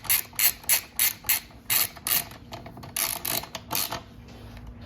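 Ratcheting wrench clicking in quick back-and-forth strokes as it runs a bolt in. The clicking stops about four seconds in.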